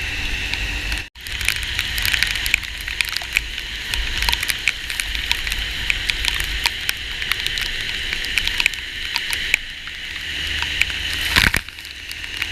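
Heavy rain pelting a car, heard from inside while driving: a steady hiss with many sharp drop impacts over a low road-and-engine rumble. The sound cuts out briefly about a second in, and there is a loud burst near the end.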